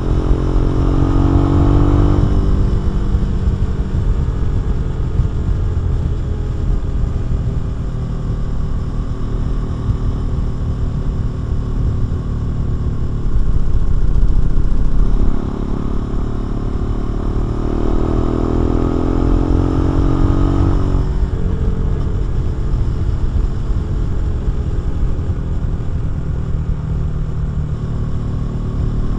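KTM 390 Duke's single-cylinder engine through a Remus exhaust, pulling hard twice with rising pitch, once at the start and again about two-thirds of the way in, each ending with a drop in revs at an upshift, and cruising between. A louder low rumble lasts about two seconds midway.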